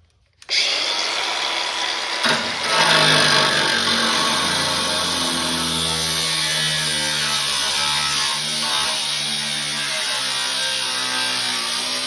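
Power tool starting up about half a second in and running steadily, a loud whirring hiss with a wavering motor pitch underneath.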